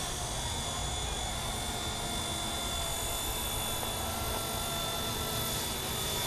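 MD 500 helicopter running steadily: a constant high whine over a rushing rotor noise and low rumble.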